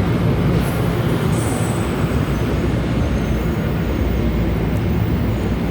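Double-decker commuter train standing at the platform, its steady low rumble filling the air.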